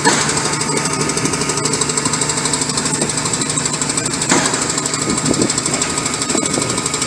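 Caterpillar C9 diesel engine running with a steady, rapid mechanical clatter, the engine whose problem is being checked.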